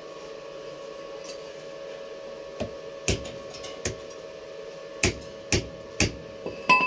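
Hammer striking steel in a metal fabrication shop: about eight sharp, irregular knocks with a short metallic ring, starting a few seconds in, over a steady machine hum.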